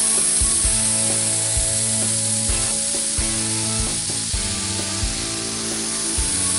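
Steady hiss of a paint spray gun spraying, over background music with a steady beat.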